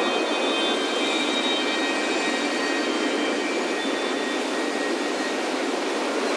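Steady wash of ocean surf on a beach, with faint high wind chime tones ringing now and then.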